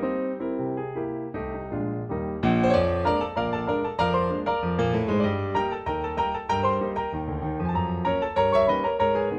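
Background piano music, a gentle melody that grows fuller and louder about two and a half seconds in.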